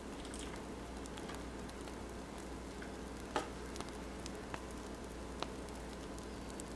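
Wood fire crackling, a steady hiss broken by scattered sharp pops and snaps, the loudest about halfway through.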